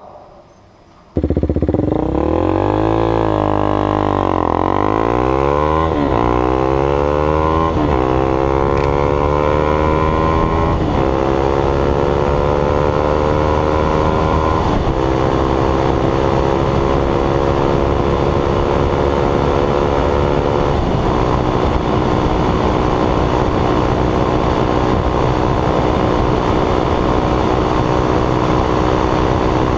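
KTM Duke 390 single-cylinder engine through a baffle-less MotoTorque free-flow exhaust, starting up loudly about a second in and pulling away through the gears. The pitch climbs, then drops back at each of five upshifts, and holds steadier in the higher gears.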